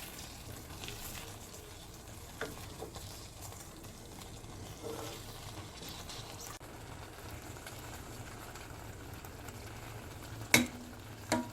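A steady sizzling hiss with scattered light clicks, broken by two sharp knocks near the end.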